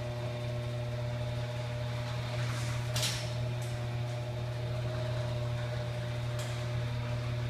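Electric garage door opener motor running with a steady hum as the door closes while the button is held down, with a couple of light clicks along the way.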